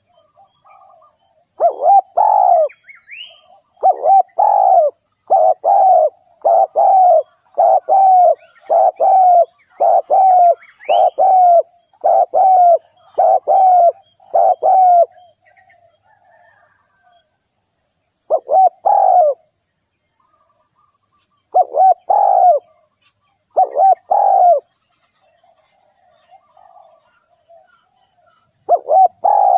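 Spotted dove cooing: a long run of loud coos in quick succession, then a few more in short groups with pauses between. Small birds chirp faintly in the background.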